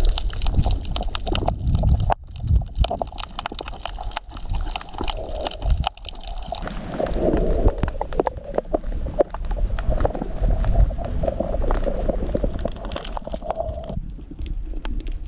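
Water sloshing and gurgling, with many small clicks and knocks.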